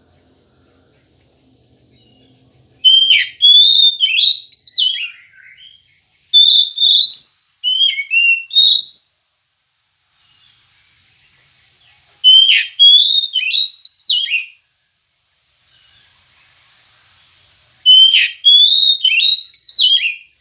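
Oriental magpie-robin (kacer) singing: loud, clear whistled phrases of quick rising and falling notes, in four bursts with short pauses between them.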